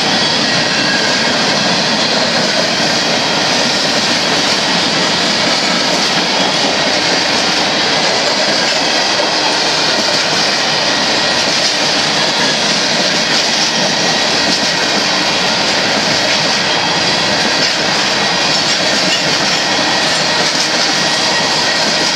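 Union Pacific freight train's hopper cars rolling past: a loud, steady noise of steel wheels running on the rails that does not let up.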